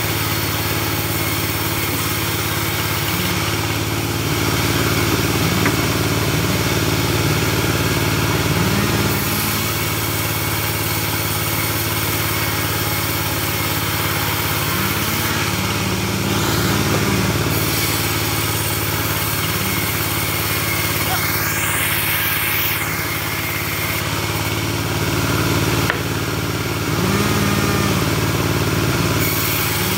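Engine-driven portable bandsaw mill running steadily, growing louder and hissier for a few seconds at a time, three times.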